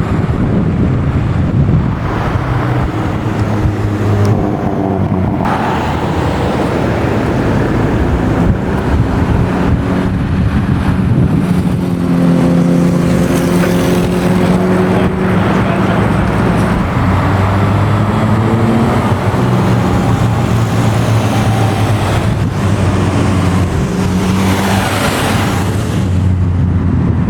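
Classic and historic cars' engines running and going by one after another. The engine notes shift in pitch as each car passes, with a car sweeping past near the end.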